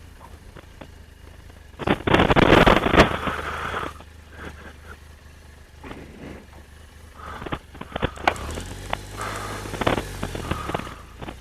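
Motorcycle engine running at low speed as the bike is moved about, with a loud rushing burst about two seconds in and a few clicks.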